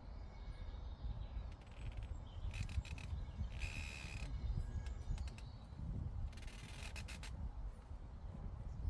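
Llama cropping grass in three short rasping bursts of tearing and chewing, over a low steady rumble of breeze on the microphone.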